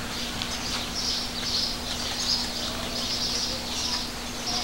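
Birds chirping in a rapid run of high chirps, about two a second, over a steady low hum.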